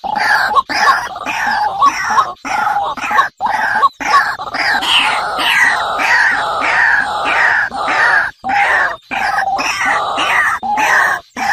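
Many birds squawking and screeching at once in a loud, dense, overlapping chorus of short falling calls, cut by several sudden brief gaps.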